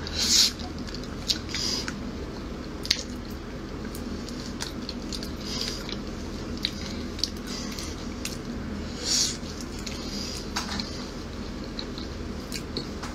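Close-miked eating of soft, ripe black sapote: wet, squishy bites and chewing, with scattered small mouth clicks and a few louder smacking bites, the loudest near the start and about nine seconds in.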